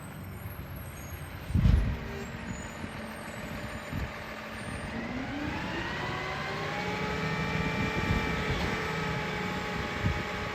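Garbage truck's engine running, then revving up about halfway through and holding at a higher, steady pitch. A heavy thump sounds about a second and a half in, the loudest moment.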